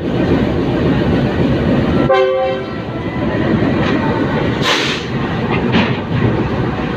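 Steady rumble of a train in a station, with a short horn blast about two seconds in and a brief hiss a little before five seconds.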